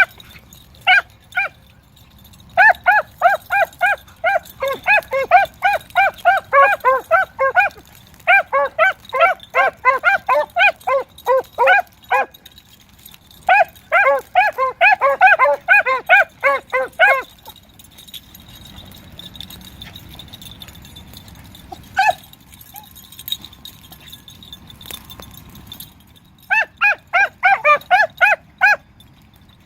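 Beagle hounds baying on a rabbit's trail in a running chase: rapid short barks, several a second, in runs of a few seconds. The barking stops for several seconds in the second half, apart from a single bark, then starts again near the end.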